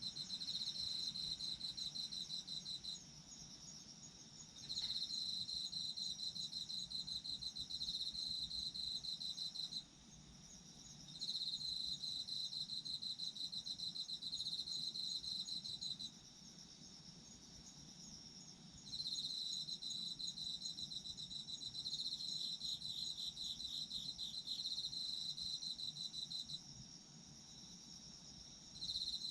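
Autumn crickets singing: a rapidly pulsed, high trill in phrases of several seconds, broken by a few short pauses, over a fainter steady chorus of other insects.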